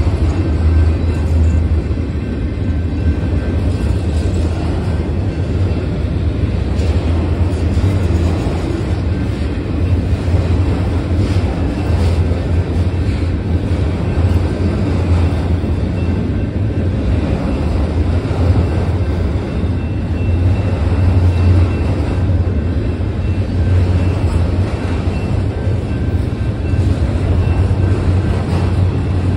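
Freight train of autorack cars rolling past close by: a steady low rumble of steel wheels on the rails.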